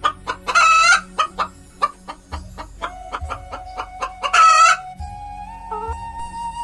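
Hen clucking rapidly, about five clucks a second, with two loud, longer squawking calls about half a second in and again near four and a half seconds. Background music comes to the fore in the last second or two as the clucking stops.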